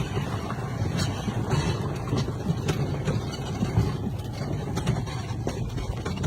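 Polaris side-by-side (UTV) engine running as it drives, a steady low rumble with a few sharp knocks and rattles scattered through it.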